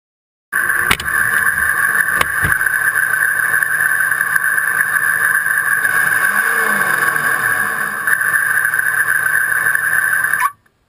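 Ford truck on the move: a steady run of engine and road noise, with one rise and fall in engine pitch a little past the middle. It starts and cuts off abruptly.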